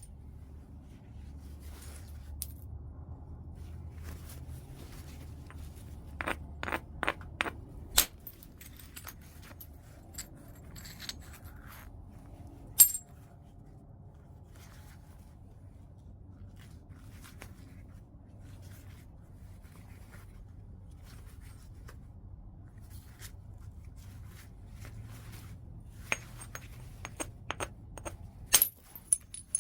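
Knapping white chert: sharp, clicking strikes of the knapping tool on the stone. There is a quick run of several strikes about a quarter of the way in, a single loud strike a little before halfway, and another run of strikes near the end, with fainter ticks and scrapes between.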